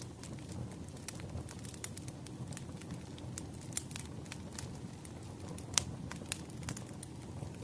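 Wood fire crackling: a steady low rumble with irregular sharp pops and snaps, one louder pop about six seconds in.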